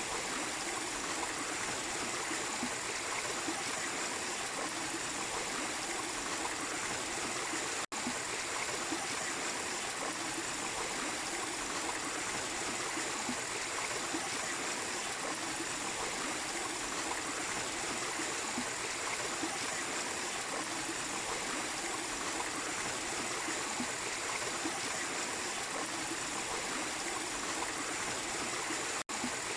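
Mini waterfall spilling into a stream: a steady, even rush and splash of running water, cut by a split-second dropout about eight seconds in and again near the end.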